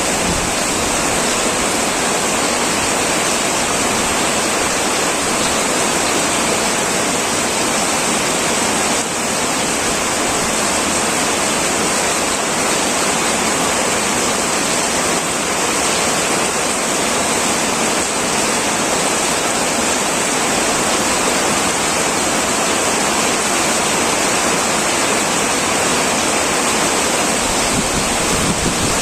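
Heavy rain pouring steadily on a metal roof: a dense, even, unbroken hiss of downpour.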